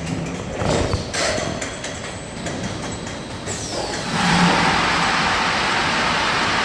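A bottle washing machine for 5-gallon bottles works through its cycle: irregular mechanical knocks and air hisses, then a short falling whistle, and from about four seconds in a loud steady rush of high-pressure water jets spraying.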